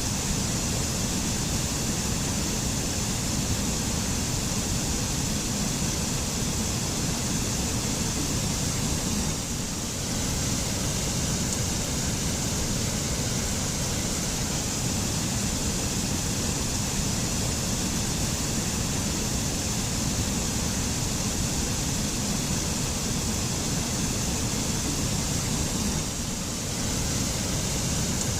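Waterfall pouring steadily in a forest: an even, continuous rush of falling water with a deep rumble beneath a bright hiss, dipping slightly twice.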